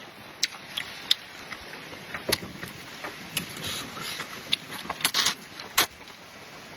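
Close-miked eating sounds: irregular sharp clicks and wet smacks of chewing.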